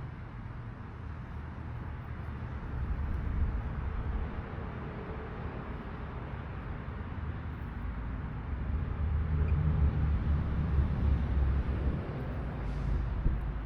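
Steady low rumble of a passing train, swelling twice, with a brief sharp click near the end.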